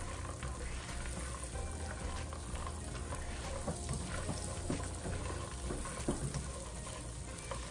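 Pecan halves being stirred in hot melted butter in a pan with a silicone spatula: a steady low sizzle of the butter, with light scrapes and clicks of nuts and spatula against the pan.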